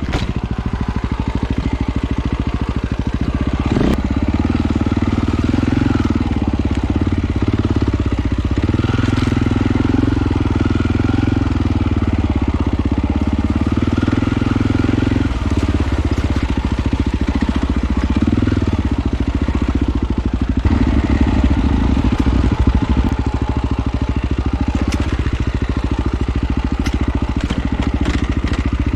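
Off-road motorcycle engine running as it is ridden, its pitch rising and falling with the throttle, with scattered clicks and knocks.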